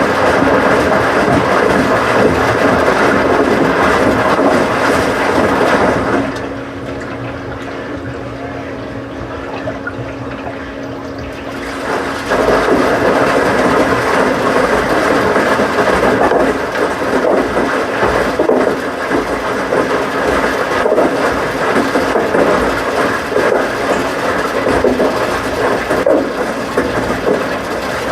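Washing machine running, with water churning and rushing and mechanical rumble. About six seconds in the water noise drops away for several seconds, leaving a steady low hum, then comes back.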